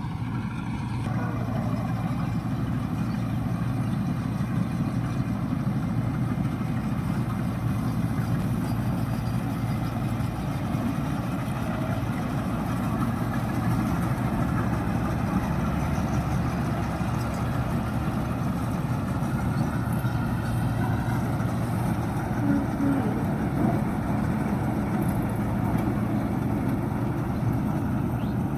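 Tractor diesel engine running steadily, a low, even rumble with no change in speed.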